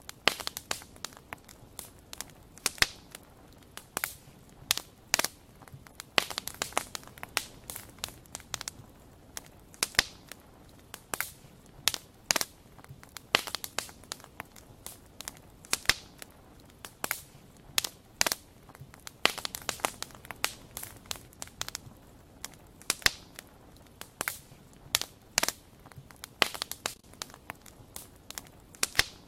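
Wood fire crackling and popping: irregular sharp snaps, sometimes several a second, over a low steady hiss.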